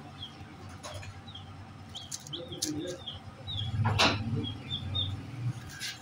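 Small caged birds peeping: short high notes repeated two or three times a second, with a louder harsh burst about four seconds in, over a low steady hum.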